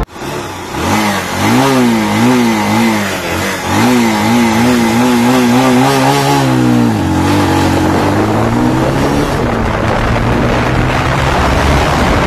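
Motorcycle engine running hard under acceleration for an acceleration test, its pitch rising and falling in short swells, then holding steadier from about seven seconds in over a steady rushing noise. It cuts off suddenly at the end.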